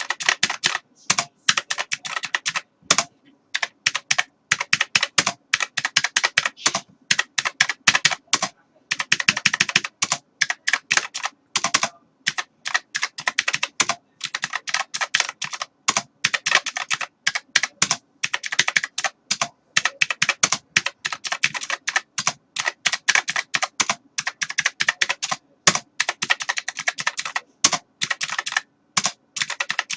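Computer keyboard typing: fast runs of sharp key clicks with brief pauses between bursts.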